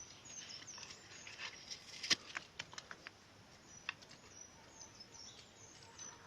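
Twigs snapping and crackling as a small fire of paper and sticks is built up: scattered light clicks with one sharper snap about two seconds in. Short high bird chirps come and go behind it.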